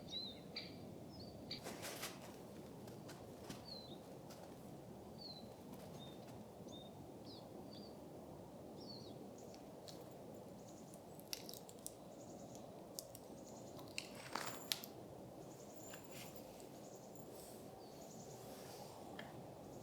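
Faint winter forest ambience: a steady low hiss with short, high bird chirps scattered through, most of them in the first half. A few sharp crunches or clicks come about two seconds in and again about two-thirds of the way through.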